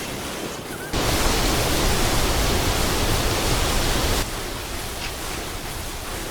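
A steady rushing noise with no pitch that starts suddenly about a second in and drops away about four seconds in, leaving a fainter hiss.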